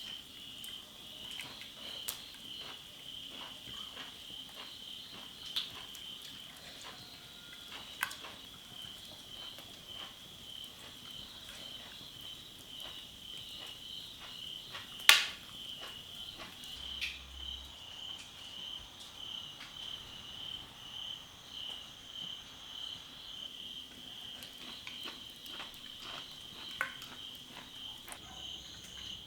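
Insects chirping in a steady, fast, even pulse, with a few sharp clicks or knocks over it; the loudest click comes about halfway through.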